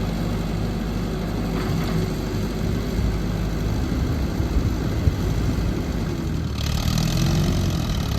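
Allis-Chalmers 170 tractor engine running steadily at low revs, with a rise in hiss and a slight shift in engine pitch about six and a half seconds in.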